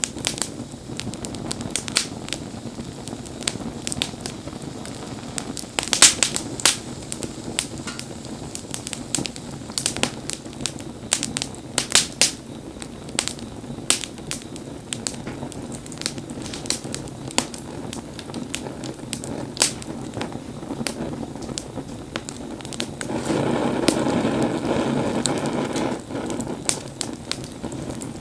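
Wood fire crackling and popping, with frequent sharp snaps over a steady low rush of burning. A louder rushing noise swells for about three seconds near the end.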